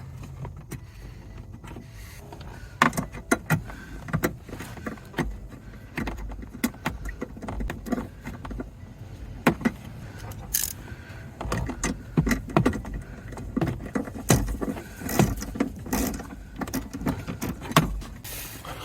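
Irregular clicks, taps and small rattles of bolts, hand tools and plastic trim being handled as dashboard covers are refitted and bolted back on.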